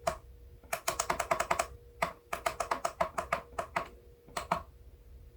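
Small plastic push buttons on a plug-in energy meter clicked rapidly in runs of many presses, several a second, as the meter is reset to zero. A faint steady hum sits underneath.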